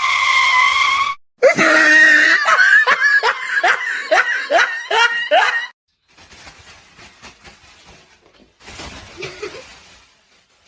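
A person laughing: a held cry, then a rapid run of short pitched laughs for about four seconds, followed by quieter rustling.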